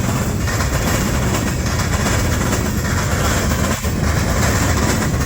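Freight train cars rolling past close by: a loud, steady rumble and rush of steel wheels on rail.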